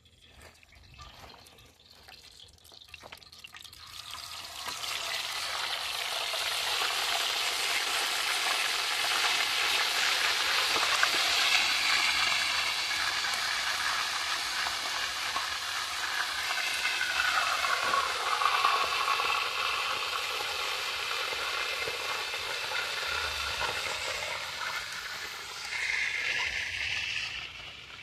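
Food frying in hot oil in a pan, a steady sizzle that builds up about four seconds in and falls away near the end.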